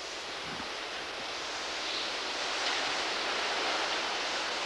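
Hurricane wind rushing steadily, swelling gradually louder.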